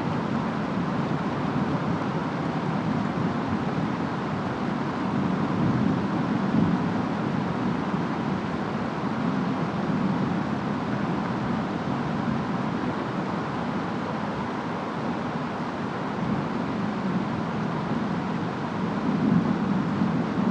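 Steady rain and wind of a distant storm, a continuous hiss over a low rumble that swells and eases slowly.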